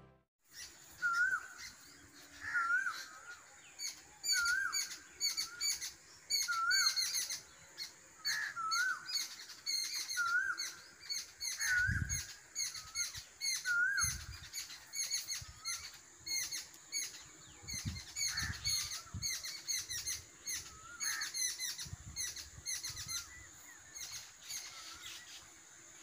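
Birds singing and chirping: one repeats a short hooked call about once a second for the first half, over many quick, high twitters. A faint steady high tone sits underneath.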